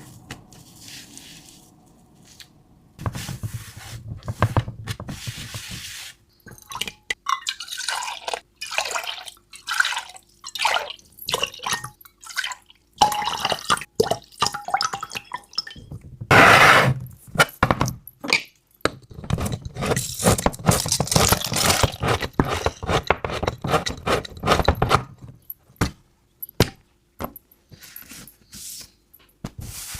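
Goat milk being poured and dripping: a short steady pour, then a long run of irregular splashes and drips that thin out into a few scattered drips near the end.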